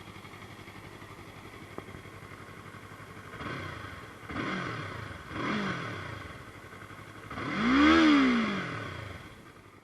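2024 Yamaha MT-03's 321cc parallel-twin engine on its stock exhaust, idling steadily, then revved: three short throttle blips, then a bigger, louder rev about eight seconds in that rises in pitch and falls back toward idle.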